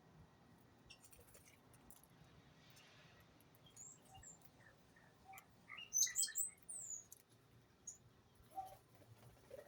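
Small birds chirping: faint short high chirps with a few light clicks, then a brief burst of louder quick chirps about six seconds in and a few more near the end.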